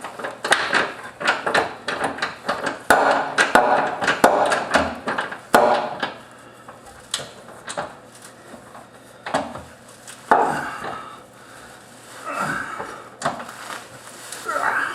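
Hand tool working on metal while tightening a bolt: quick metallic clicks and knocks for about the first six seconds, then a few scattered knocks and scrapes.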